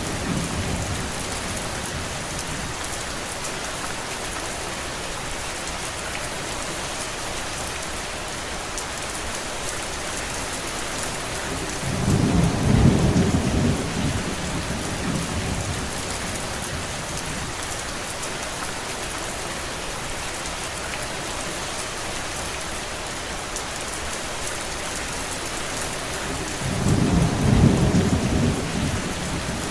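Steady rain falling, an even hiss, with two low rumbles of thunder, one about halfway through and one near the end, each lasting a few seconds.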